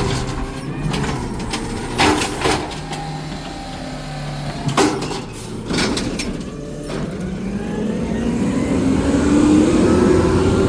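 Garbage truck on a trash route: several sharp metal clanks and bangs in the first half, then its diesel engine revs up, rising steadily in pitch toward the end.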